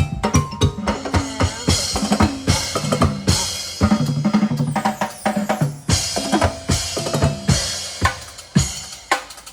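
Live percussion band drumming a fast, dense beat on instruments made from used materials, with low pitched notes running under the hits.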